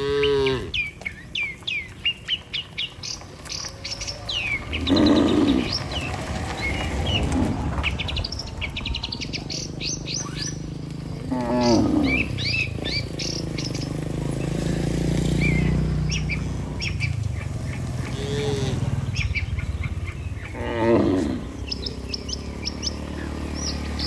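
Cattle mooing, about five long, low moos spread through, with many small birds chirping throughout.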